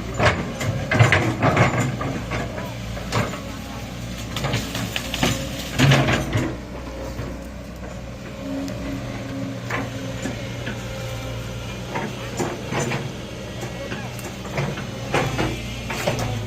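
Excavator's diesel engine running with a steady low hum, under repeated sharp clanks and knocks of the machine at work, loudest in the first few seconds and again about six seconds in.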